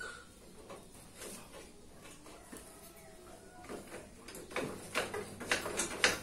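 Scattered clicks and knocks of parts and tools being handled, with a run of sharper knocks in the last couple of seconds.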